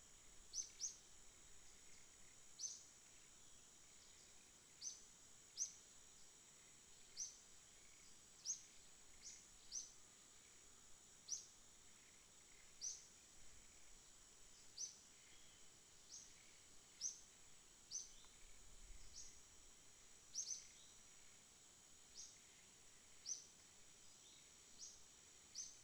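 Faint background of a bird repeating short, rising chirps about once a second over a steady, high-pitched insect drone.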